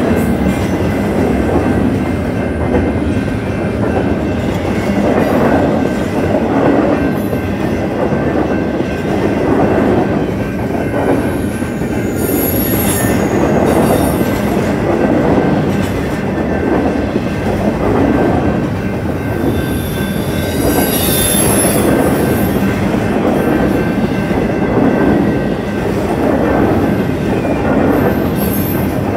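Union Pacific double-stack intermodal train rolling past: a steady rumble and clatter of steel wheels on the rails as the container cars go by, with brief high wheel squeals a few times, the strongest about two-thirds of the way through.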